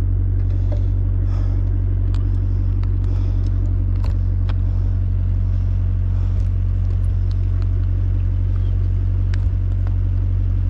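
Car engine idling steadily, a low even rumble, with a few faint light clicks over it.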